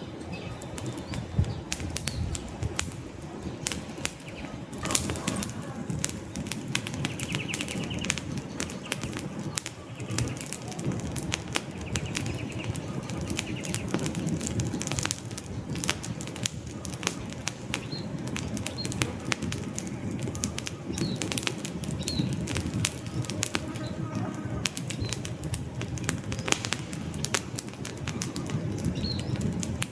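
Log fire crackling: dense, irregular pops and snaps over a steady low rumble of burning flames.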